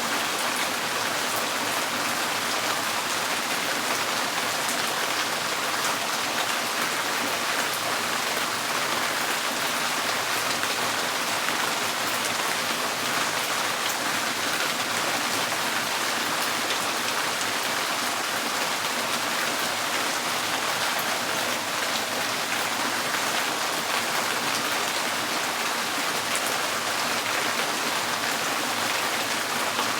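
Rain falling steadily on a tin porch roof: a dense, even patter of drops with no let-up.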